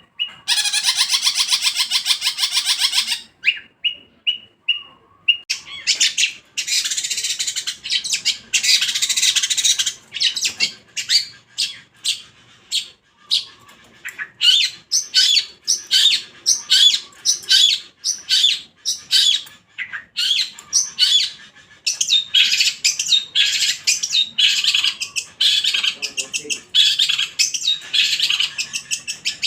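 Long-tailed shrike singing loudly and continuously: fast harsh rattling bursts and chattering phrases, broken up by runs of short, sharp notes.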